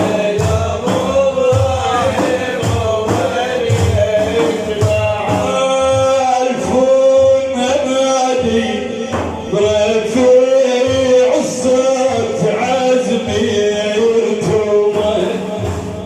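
Men singing a devotional chant in long, wavering held lines over a steady drum beat.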